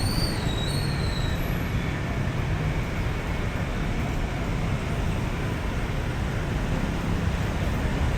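Steady city street traffic, engines running past, with a brief wavering high tone in the first second or so.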